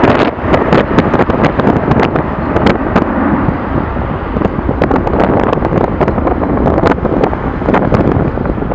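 Strong wind buffeting the camera microphone: a loud, continuous rumble broken by frequent crackling gusts.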